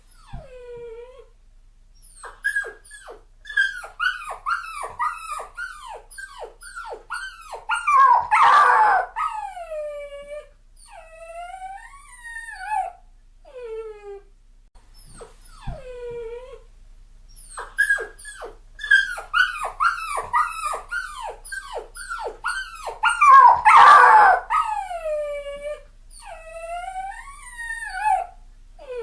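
Puppy crying: quick runs of high whimpers that fall in pitch, a louder howling cry, then longer drawn-out whines. The same sequence comes round again about halfway through.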